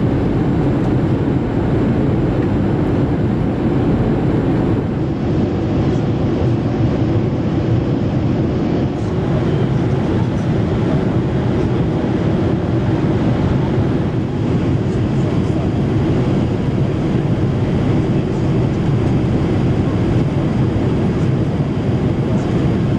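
Steady cabin noise inside a Boeing 787-8 airliner: an even, low rushing drone that holds level throughout.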